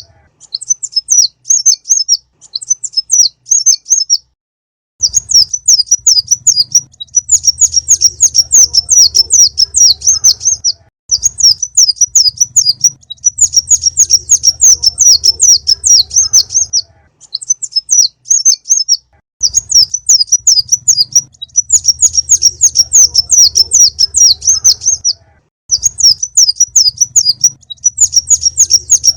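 Konin birdsong played as a lure call: loud, rapid, high-pitched chirping phrases a few seconds long, broken by short pauses, with a low hum under most phrases.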